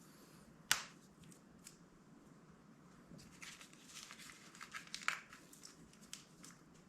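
Masking being put on by hand: tape pulled and torn, with crinkling of the covering wrapped over hoses and cylinders. There is one sharp snap about a second in, then a stretch of crackling rustles near the middle.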